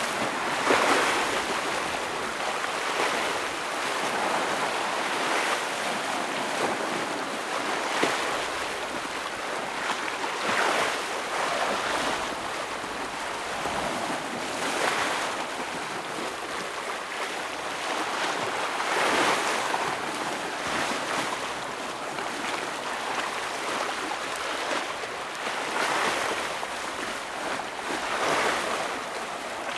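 Sea waves breaking and washing over rocks on a rocky shore. There is a continuous wash of surf, with a louder surge every two to four seconds as each wave hits.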